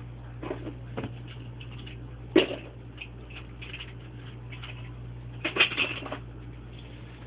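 Drawing on paper: short scratchy strokes and taps, with a sharper tap about two and a half seconds in and a quick run of strokes near the end, over a steady low electrical hum.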